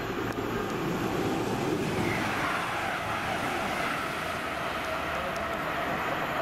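Grand Central Class 180 diesel multiple unit passing at speed, its wheels and engines making a steady rushing noise that builds about a second in. A faint steady whine rides over it midway.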